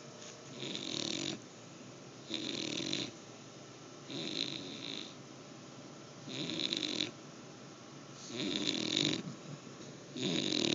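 A sleeping bully-breed dog snoring, about six snores in a steady rhythm, one every couple of seconds.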